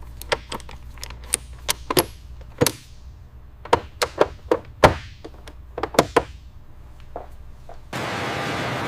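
A quick, irregular series of sharp knocks and taps, some ringing briefly, like hard parts being struck or set down. About eight seconds in they stop and a steady rushing hiss starts abruptly.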